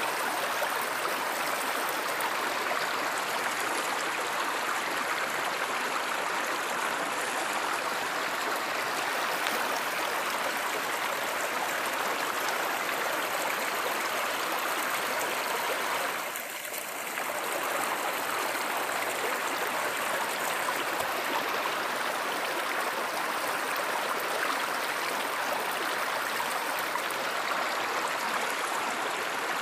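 Steady rush of flowing stream water, with a brief dip in level a little past halfway.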